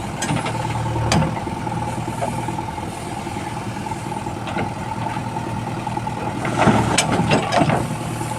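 Heavy diesel engine idling steadily, with a few metallic clanks and knocks, the loudest about a second in and near the end.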